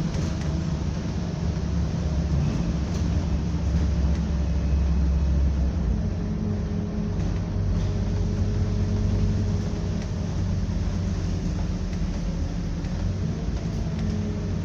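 Scania double-decker bus running, heard from on board: a steady low engine and road rumble whose deepest drone eases off about six seconds in.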